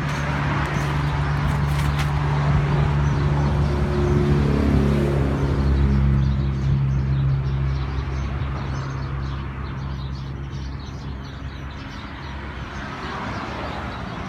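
Large vehicle engine running with a low, steady hum, growing louder up to about six seconds in and then fading away.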